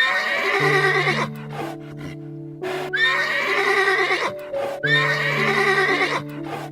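Horse whinnying three times, each call rising sharply and then wavering for about a second, over background music.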